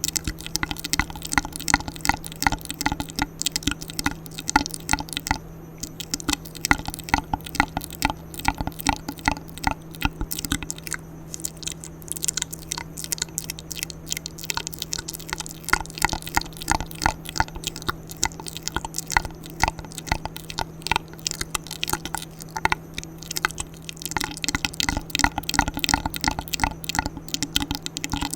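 ASMR mouth sounds close to the microphone: a rapid, continuous run of wet clicks and smacks over a steady low hum.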